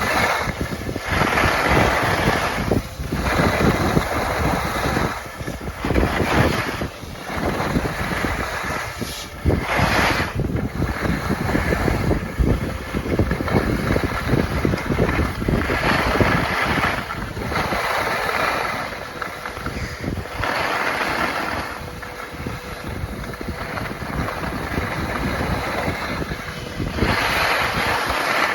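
Wind rushing across the microphone while skiing downhill, surging and easing every second or two.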